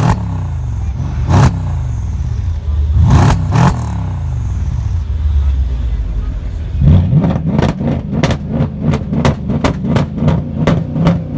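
Mercedes-AMG V8 engine being revved with sharp cracks on each blip. Its pitch rises and falls back several times, and from about seven seconds in it is blipped quickly, about three or four times a second, with a crack on each blip.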